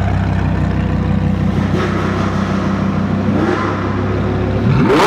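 Straight-piped Lamborghini engine idling steadily, then revving sharply upward near the end.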